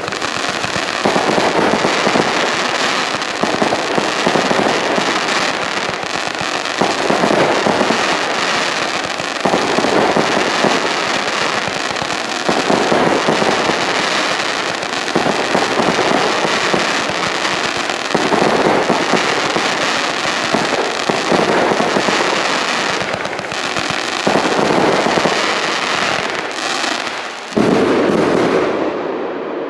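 Funke 'Snowblind S' 100-shot 20 mm firework cake firing: continuous dense crackling over the shots, swelling every two to three seconds. Near the end comes one sudden, loudest burst as the last shots fire together, then the crackling dies away.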